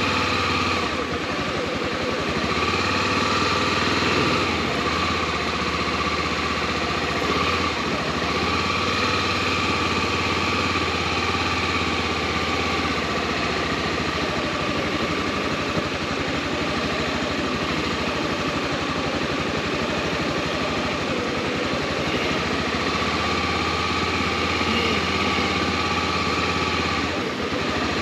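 Honda XRE300's single-cylinder engine running steadily, its note changing briefly about a second in and again near the end.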